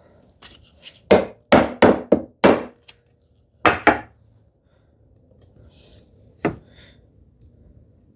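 Chisel chopping down into a wooden tenon shoulder along a knife line, giving a series of sharp wooden knocks. There are about seven knocks in the first four seconds and one more about six and a half seconds in.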